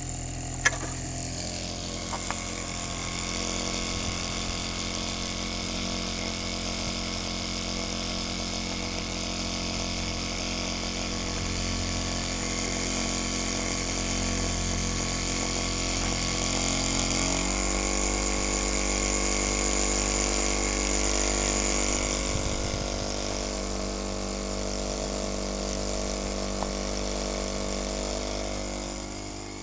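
Solar Stirling engine running with a steady mechanical whir, its pitch stepping up about two-thirds of the way through. A single sharp click comes near the start.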